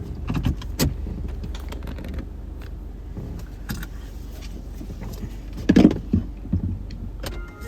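Inside a car: a steady low engine and road rumble with scattered clicks and rattles, and a brief louder sound a little before the end.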